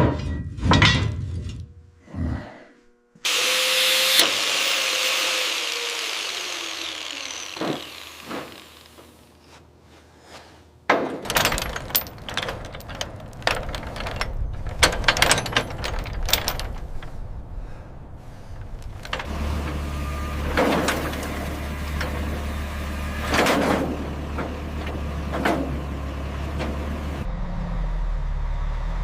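Metal clanks and rattles of steel chains and binders being worked on a trailer, with a long hiss in the first third. From about the middle on, a vehicle engine hums steadily under the clanks.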